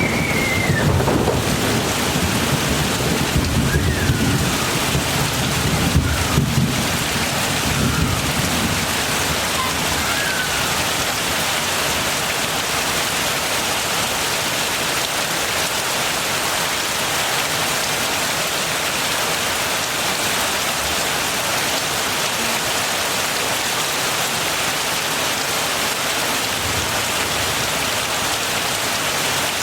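Heavy rain pouring steadily, with a low rumble of thunder over the first several seconds that dies away, leaving only the rain.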